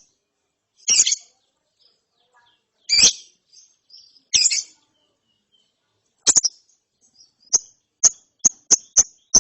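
Juvenile lovebird giving sharp, high-pitched chirps, spaced out at first and then coming quickly, several a second, near the end.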